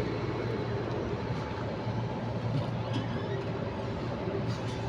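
A steady machine hum with an even hiss over it.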